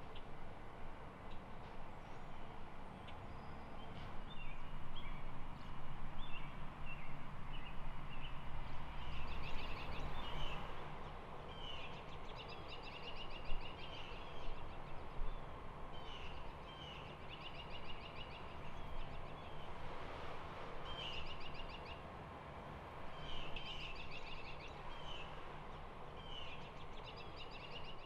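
Songbirds singing outdoors: short chirps at first, then a bird repeating a brief phrase that ends in a trill every second or two, over a steady background of outdoor noise.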